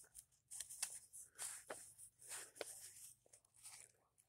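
Quiet close-up chewing of a hamburger: soft, wet mouth noises with sharp clicks, a few a second, dying away near the end.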